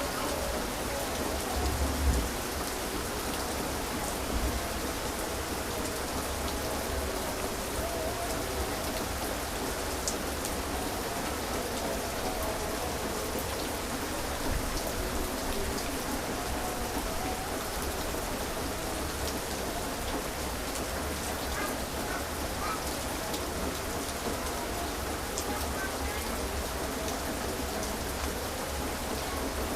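Heavy rain falling steadily, over a low rumble of distant thunder that swells briefly about two seconds in.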